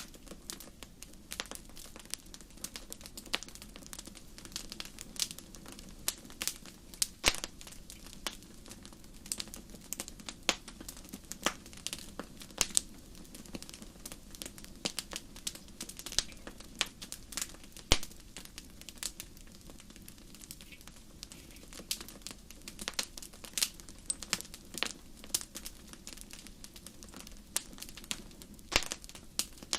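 Wood fire burning in a fireplace: irregular crackles and pops over a low steady rumble, with a few sharper pops, the loudest about 18 seconds in.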